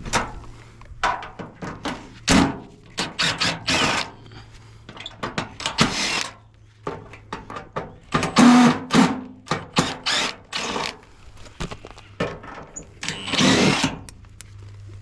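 Washing machine being dismantled with tools: irregular short bursts of a power tool, mixed with knocks and clatter of sheet metal and parts, over a faint steady low hum.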